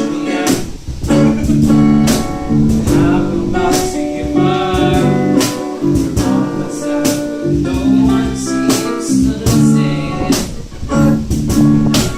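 A band playing a song at practice: guitar and a singing voice over frequent sharp percussive hits.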